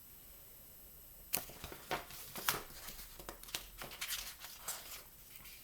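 Paper rustling and crinkling with small clicks, starting about a second in: the pages of a picture book being handled and turned.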